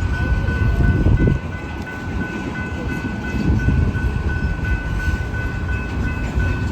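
Freight train cars rolling past with a steady low rumble, a thin high ringing tone running over it.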